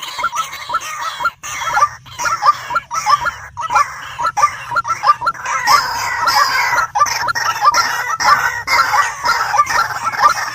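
White-breasted waterhen calling: a rapid, continuous run of short repeated notes, about three or four a second.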